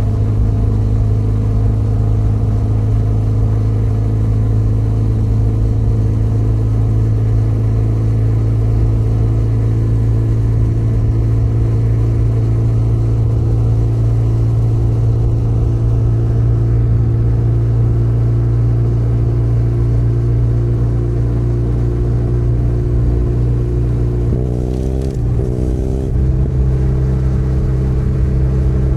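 Benelli Leoncino 500 Trail's parallel-twin engine running steadily at a constant speed. About 25 seconds in, the engine note dips and shifts in pitch, as with a gear change.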